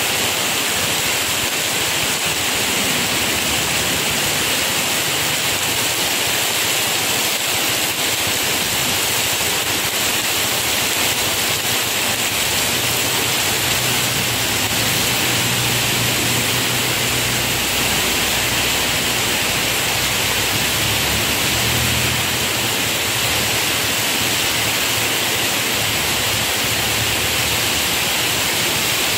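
Heavy, steady rain pouring onto pavement and a flooded street. A low engine sound joins in the middle, about twelve to twenty-two seconds in, as a small truck drives through the floodwater.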